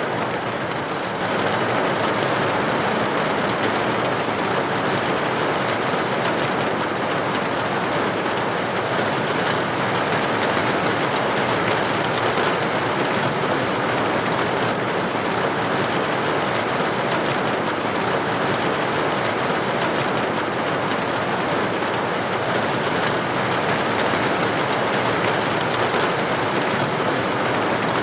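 Steady rain falling on a window: an even hiss with no distinct drops standing out, a little louder from about a second and a half in.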